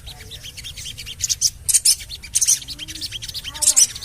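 Sogon bird calling: rapid, high-pitched 'cuit cuit' chirps in quick bunches. It is a lure call meant to get a caged sogon to start singing.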